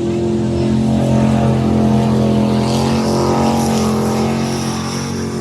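Rally truck's engine running hard at steady revs, a loud, even drone held throughout.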